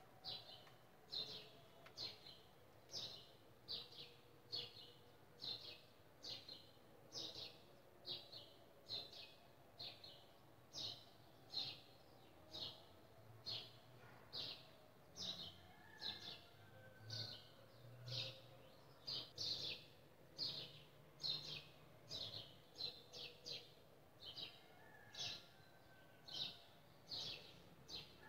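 A bird chirping over and over, about two short chirps a second, faint and steady.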